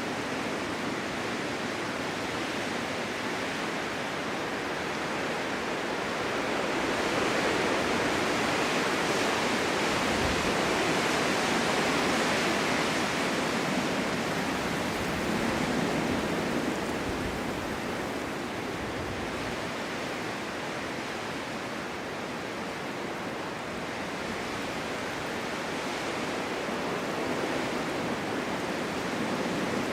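Snowstorm wind blowing steadily, swelling into a stronger gust several seconds in and easing back down later.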